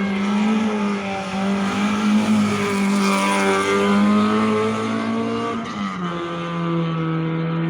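Historic rally car's engine held at high revs under load, its pitch wavering slightly and dropping a step about six seconds in.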